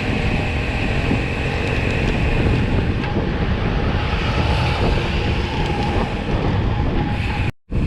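Steady wind buffeting the microphone and road noise while riding, with a short complete dropout in the sound near the end.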